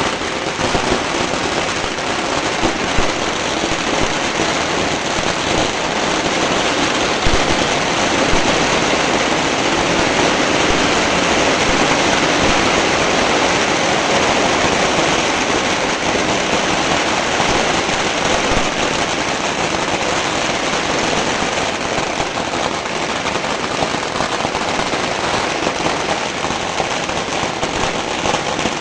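A large fire burning with a dense, continuous crackling, steady throughout.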